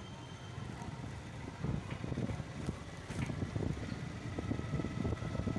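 Wind buffeting the microphone on a moving motorcycle, in uneven gusts that grow stronger about a second and a half in, over a steady rumble of engine and road noise.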